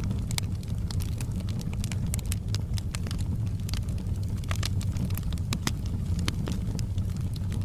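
A fireplace fire crackling, with frequent irregular sharp pops and snaps over a steady low rumble.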